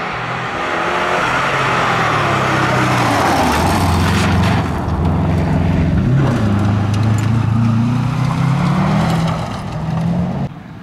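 A car's engine passing close by, its pitch falling as it slows and then rising again as it pulls away, with tyre and road noise throughout; the sound drops off suddenly near the end.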